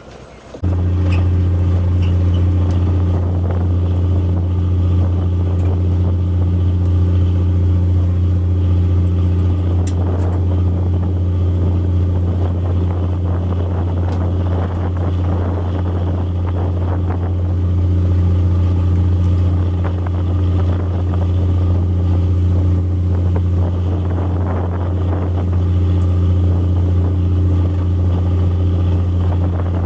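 Fishing boat's diesel machinery running steadily with a deep, even hum, cutting in abruptly about half a second in.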